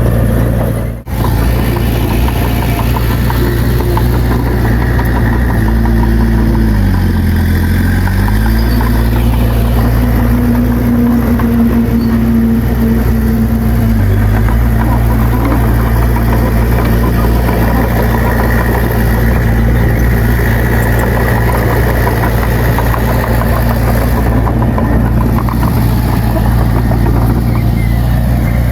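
Bulldozer's diesel engine running steadily. About seven seconds in its pitch sags and recovers, and it dips briefly again near the middle. There is a short dropout about a second in.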